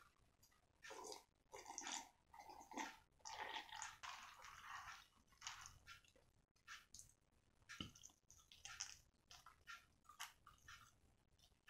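Close-miked eating sounds: a person biting and chewing crispy fried chicken, with a string of irregular wet, crunchy mouth noises.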